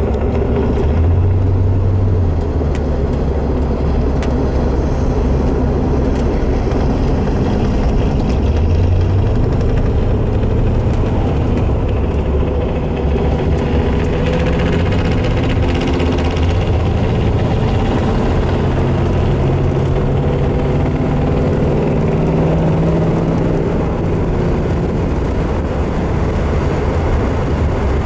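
Car engine and road noise heard from inside the cabin while driving, the low engine note drifting up and down in pitch as speed changes.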